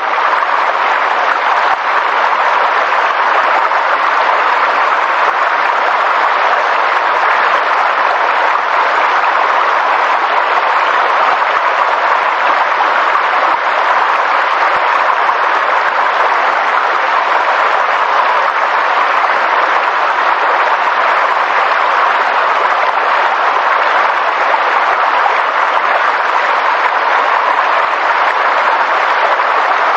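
Steady, dense rushing noise from a nature-sound recording, even and unbroken throughout, with no birdsong or other distinct sounds standing out.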